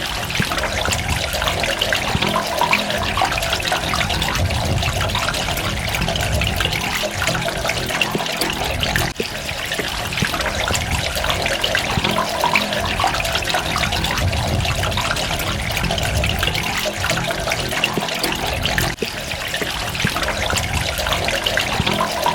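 Water running and trickling steadily, a continuous even rush with droplets, dipping briefly twice.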